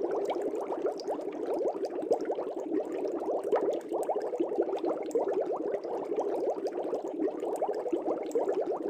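Air bubbles rising through fish tank water in a continuous, dense bubbling, with many small quick gurgles overlapping.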